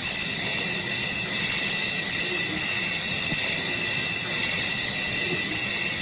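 Steady high-pitched chorus of insects, several even tones held without a break, over a faint low rumble of bush ambience.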